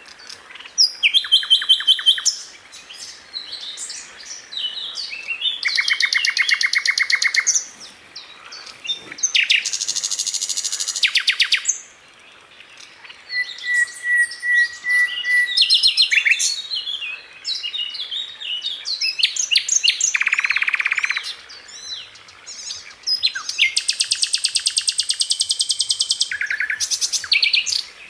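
Sikatan Londo flycatcher singing bursts of rapid-fire, tightly packed repeated notes. The high trills last a second or two each, with short pauses between them. Around the middle comes one thin, level whistle.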